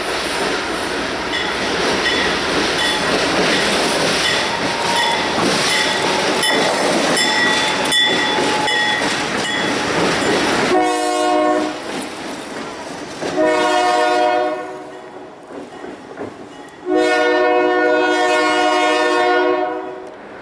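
Freight train rolling by with a steady rush of wheels on rail and faint high squealing tones. About halfway through the rolling noise drops away and a locomotive air horn sounds three blasts: short, a little longer, then a long final blast.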